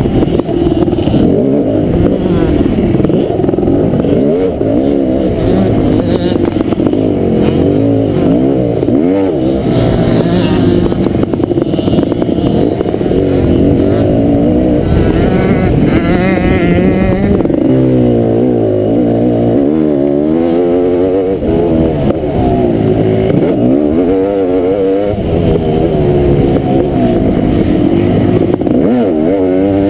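Kawasaki KX500 single-cylinder two-stroke motocross engine running hard, its pitch repeatedly climbing and dropping as the throttle is worked and gears change.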